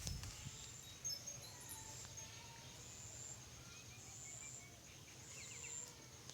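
Quiet rural ambience: insects trilling high in repeated spells, a few short bird chirps, and a low rumble of wind on the microphone.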